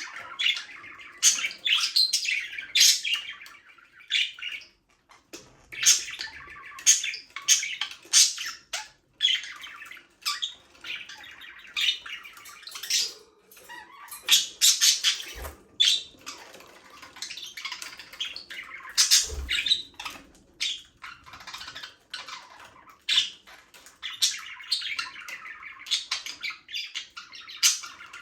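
A flock of budgerigars chirping and chattering, with short sharp squawks.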